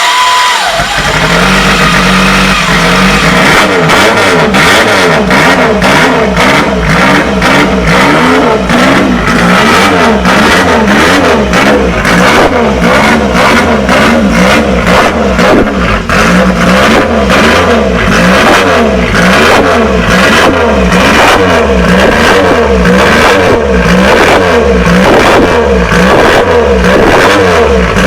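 Triumph Trident Rob North race replica's three-cylinder engine, running steadily for the first few seconds and then revved up and down over and over, roughly once a second.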